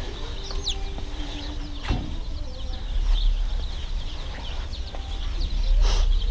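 A crowd of baby chicks peeping in a store brooder: many short, high chirps overlapping continuously, over a low steady hum.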